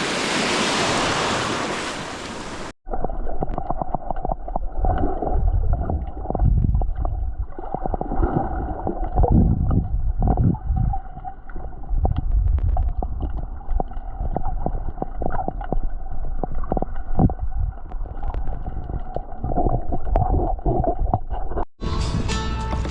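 Wind and water noise on the microphone for about three seconds, then a cut to a muffled stretch of water gurgling and sloshing with many low thumps and a faint steady hum.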